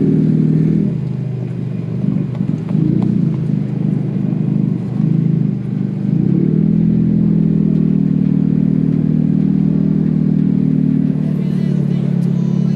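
Car engine running at low speed while the car creeps along, a steady low drone that wavers for the first few seconds and then holds an even note.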